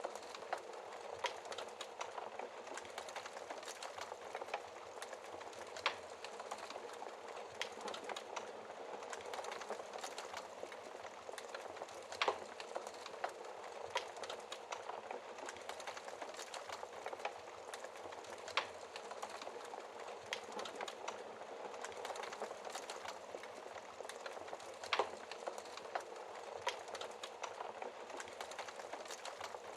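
Fire in a fireplace crackling: a steady soft hiss with irregular sharp pops and snaps scattered throughout, a few of them louder than the rest.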